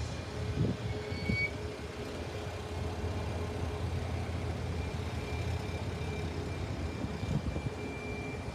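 Steady low engine rumble with a thin, steady high whine above it.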